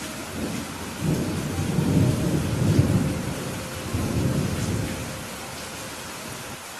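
Steady rain with a low rolling rumble of thunder that builds about a second in, peaks near the middle and fades away by about five seconds.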